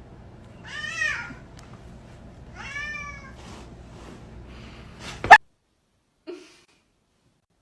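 Domestic cat meowing twice, each meow rising then falling in pitch. About five seconds in there is a single sharp, loud knock, after which the sound cuts out, with one brief faint sound a second later.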